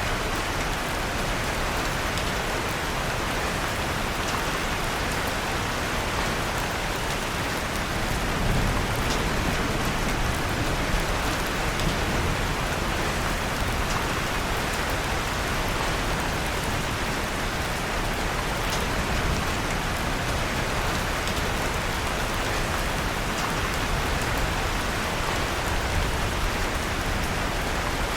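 Steady rain pattering on a surface, mixed with a wood fire in a fireplace giving faint scattered crackles and pops.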